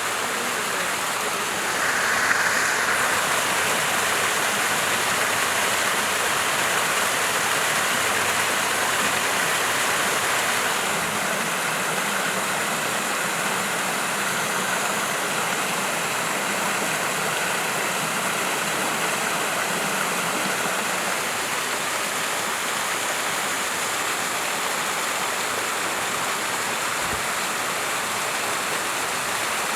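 Mountain stream flowing over rocks, a steady rushing and babbling of water, slightly louder for the first third.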